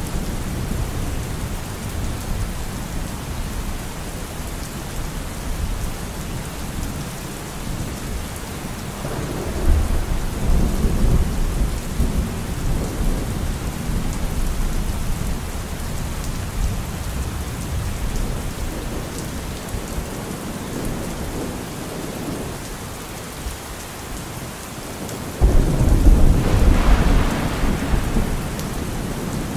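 Steady rain with thunder: a low rumble swells about nine seconds in, and a sudden, louder thunderclap rumbles near the end.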